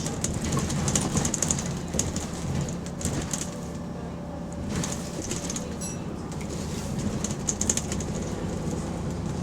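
A city bus's diesel engine running, heard from inside the bus, with repeated short hissing puffs from an exhaust leak.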